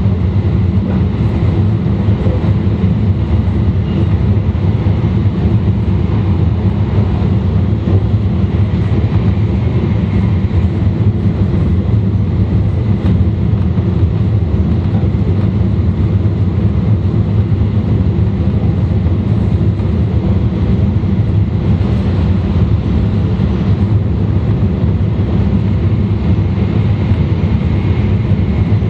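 E2 series Shinkansen running noise heard from a car's vestibule: a steady, even rumble of the train on the track, with faint steady tones above it.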